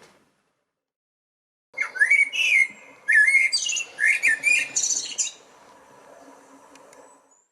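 Eurasian blackbird singing: a short run of warbling phrases, some ending in a high twitter, starting after a brief silence and stopping well before the end, leaving a faint background hiss.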